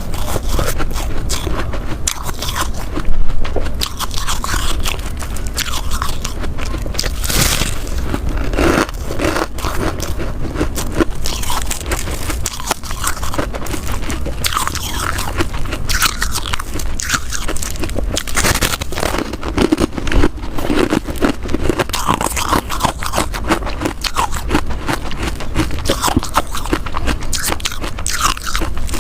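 Close-up crunching and chewing of frozen ice bites: sharp cracks as the ice breaks between the teeth, then dense grinding crunches, with one especially loud bite about three seconds in.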